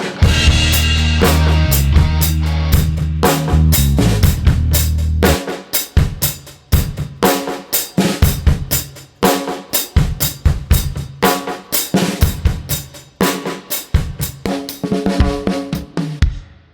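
Drum kit playing a groove of bass drum and snare hits. For about the first five seconds it runs over held low notes, then the drums carry on alone and stop just before the end.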